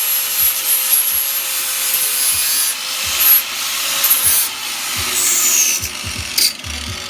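Tool abrading the titanium muffler's metal: a loud, rough, hissing rub that starts abruptly and dies away about six and a half seconds in.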